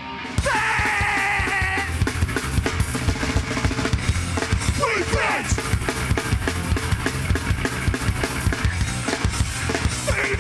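Hardcore band playing live: a quiet guitar passage breaks about half a second in into the full band, pounding drums and distorted guitars at full volume.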